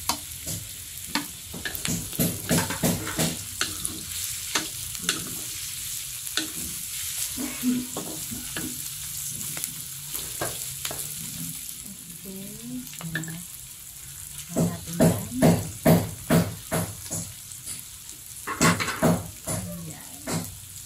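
Onions and garlic sizzling in hot oil in an aluminium wok, with a wooden spatula scraping and knocking against the pan as they are stirred. Quick runs of louder knocks come about two-thirds of the way through and again near the end.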